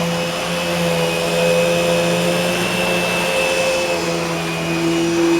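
Eureka The Boss Smartvac 4870 plastic upright vacuum cleaner running steadily on carpet, its motor giving a constant whine.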